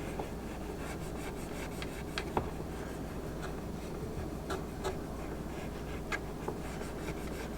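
Cotton swab rubbing and scrubbing around a humidifier's transducer ring to clear off mineral scale, with scattered light ticks and scrapes.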